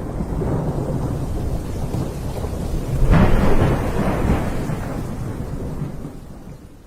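Thunderstorm: rolling thunder over steady rain, swelling into a louder rumble about three seconds in, then fading out.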